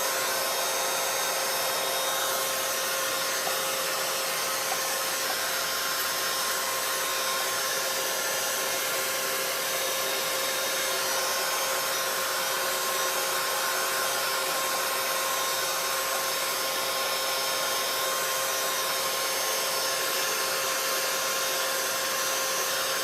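Craft heat tool running steadily, its fan blowing hot air over the wet colours on the card to dry them, an even whir with a constant hum.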